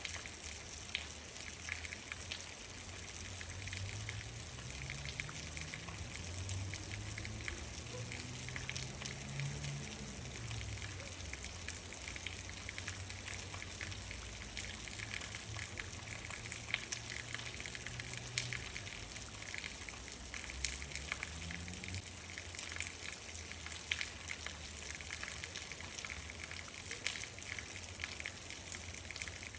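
Steady rain falling, an even hiss sprinkled with many sharp drop taps. A low drone rises and falls in pitch from about four to twelve seconds in, and briefly again around twenty seconds.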